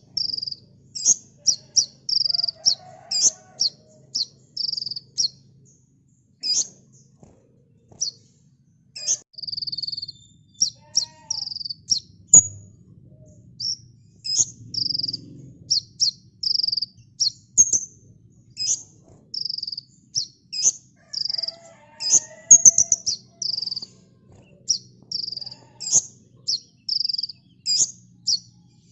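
Kolibri ninja sunbird singing: a fast, repeated run of short, high chirps and trills, a few notes a second, with one brief pause about a third of the way through.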